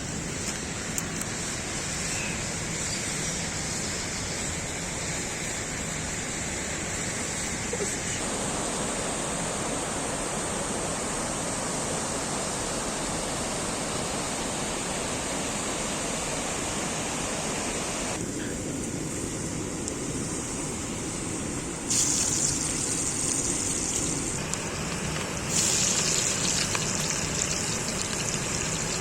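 Steady rush of a waterfall's falling water. Its tone and loudness shift abruptly a few times, becoming brighter and louder about 22 and 25 seconds in.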